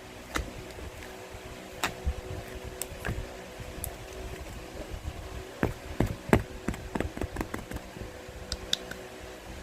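Slime being squished and kneaded by hand to work acrylic paint into it: irregular short sticky clicks and pops, coming in a quick run a little past the middle, over a steady low hum.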